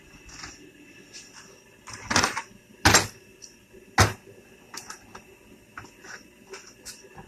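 Three sharp knocks, about two, three and four seconds in, with lighter clicks and taps between: objects being handled and set down on a work surface.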